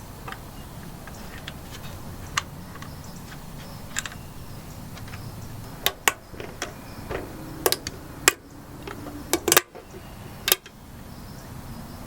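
Sharp metallic clinks and clanks of hand tools and metal parts being handled. Sparse light clicks come first, then a run of louder clanks in the second half.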